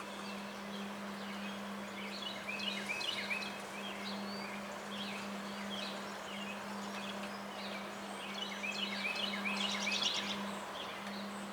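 Small birds chirping over the steady rush of strong wind, with the chirping busiest near the end. A steady low hum runs underneath.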